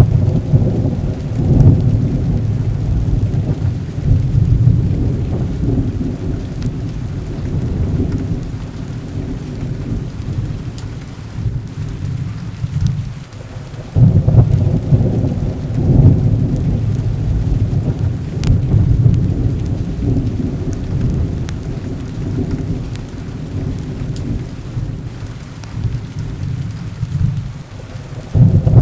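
Thunderstorm: long rolls of deep thunder rumbling over steady heavy rain, with a fresh roll breaking about halfway through and another near the end.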